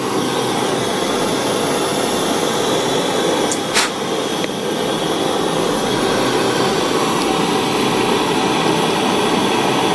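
Steady, even machine noise like a running blower, with one sharp click about four seconds in.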